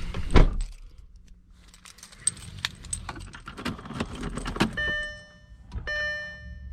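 Car keys jangling with scattered clicks and a knock about half a second in. From about five seconds in, an electronic warning chime from the 2004 Audi A4 repeats about once a second.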